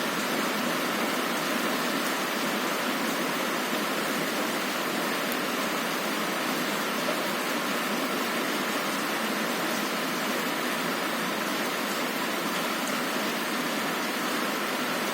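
Heavy rain falling on a window, a steady, even hiss with no thunder.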